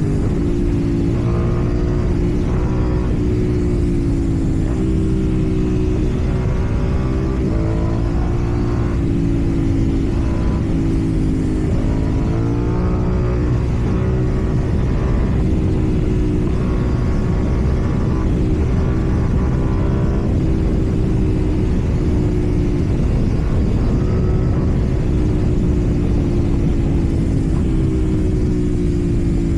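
KTM Duke 790's 799 cc parallel-twin engine through a slip-on exhaust, its note rising and falling gently as the throttle changes.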